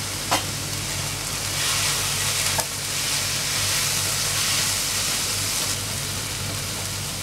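Onion-tomato masala with spice powders sizzling in hot oil in a nonstick kadhai while a spatula stirs it, with a couple of light spatula taps on the pan. The sizzle grows louder about a second and a half in and eases near the end, over a steady low hum.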